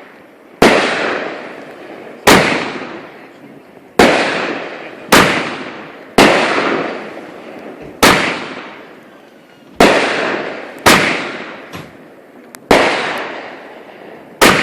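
Backyard fireworks going off: about ten sharp bangs, one every one to two seconds, each trailing away over a second or so.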